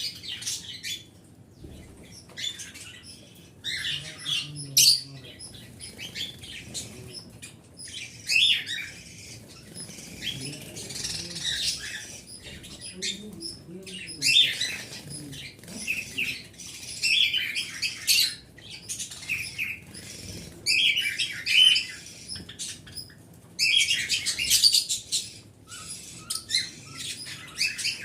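Small pet birds chirping and chattering in quick, irregular bursts of high notes, with brief pauses between bursts.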